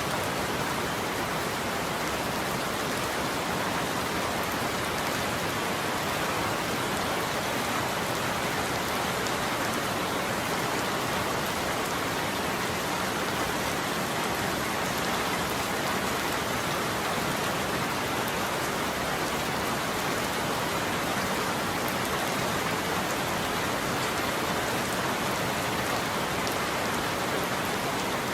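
Steady heavy rain falling on a roof, an even unbroken patter with no thunder.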